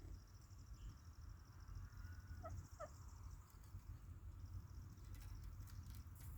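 Two short, soft parrot chirps in quick succession about two and a half seconds in, over a faint low background rumble and a faint high-pitched trill.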